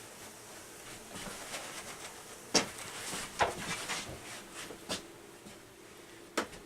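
Faint hum of loose honeybees, broken by several sharp knocks and clicks from handling the hive, the loudest two a couple of seconds in.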